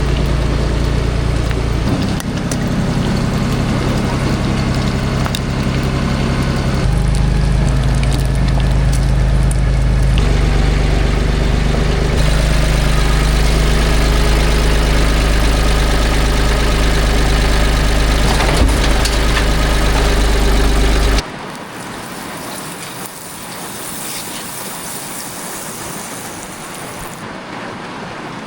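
Four-wheeler engine running steadily, its low note shifting in steps a few times, then dropping suddenly to a much quieter steady hum about 21 seconds in.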